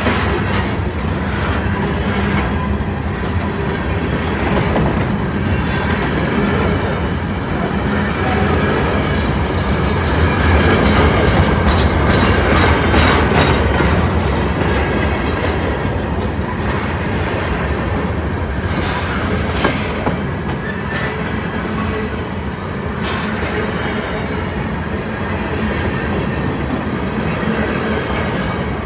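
Freight train of open-top hopper cars rolling past close by: steady wheel-on-rail rumble with repeated clacks as wheels cross rail joints.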